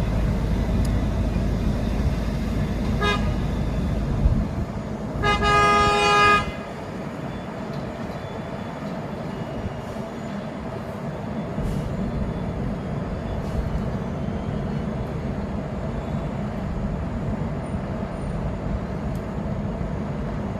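Engines of road-paving machinery running steadily, with a short vehicle horn toot about three seconds in and a longer horn blast a little over a second long about five seconds in. After the blast the heavy low engine rumble falls away, leaving a quieter steady engine sound.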